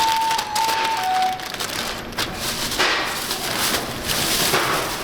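Crackling, rustling noise in bursts, with a few steady tones stepping down in pitch during the first second or so.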